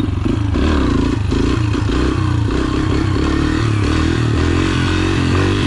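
Yamaha TT-R125's small four-stroke single-cylinder engine revving in second gear during a wheelie attempt: the pitch rises and falls several times as the clutch is slipped and popped, then climbs more steadily as the bike pulls.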